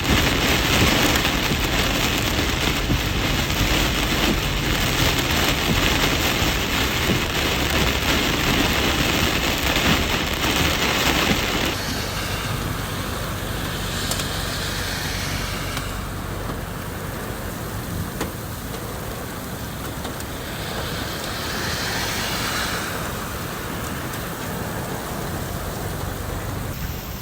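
Very heavy rain pouring down as a dense, steady hiss, which drops to a softer level about twelve seconds in.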